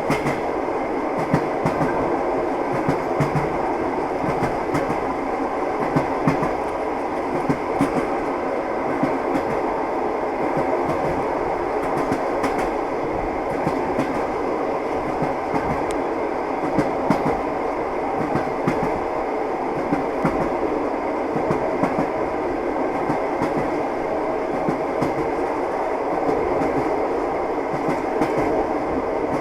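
Train wheels clattering over rail joints, with a steady rolling rumble of a moving railway carriage and irregular short knocks throughout.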